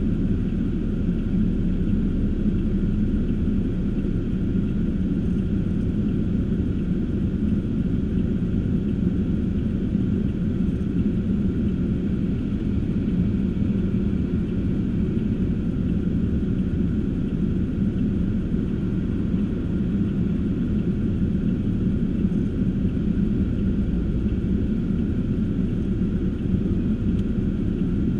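Steady low rumble of a car driving: engine and road noise, heard from inside the car, unchanging throughout.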